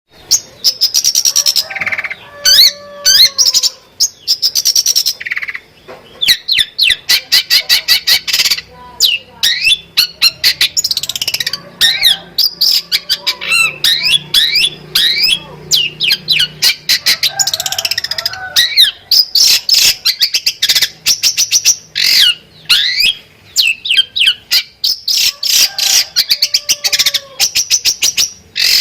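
Long-tailed shrike (cendet) singing a fast, nearly unbroken run of sharp chattering clicks, chirps and quick sweeping whistles, a song stuffed with phrases mimicked from other birds.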